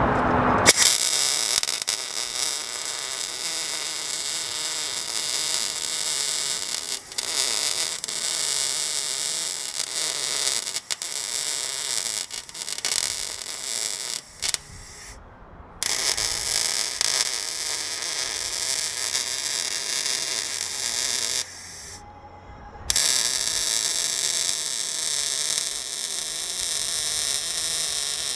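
Arc welding on a truck's steel body mount: a continuous crackling hiss as the patch plate is welded into the chopped mount. The arc stops briefly twice and then strikes up again.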